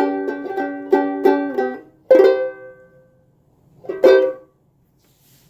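A plucked string instrument playing the song's closing chords: quick strumming that stops about two seconds in, then two single strummed chords about two seconds apart, each left to ring out and die away.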